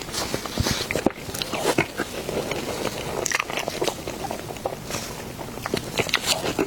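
Close-miked eating: biting and chewing soft food, with many short, irregular wet mouth clicks and smacks.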